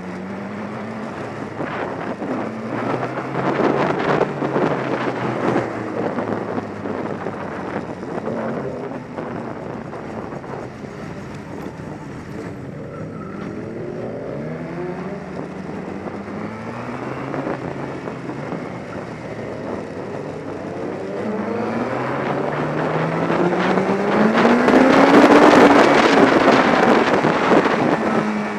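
Inline-four sport motorcycle engine accelerating hard through the gears, its pitch climbing and dropping back at each shift. The longest and loudest pull comes near the end, climbing to high revs before falling off.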